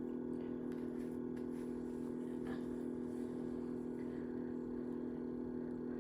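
Steady background hum made of several unchanging low tones, with a few faint ticks scattered through it.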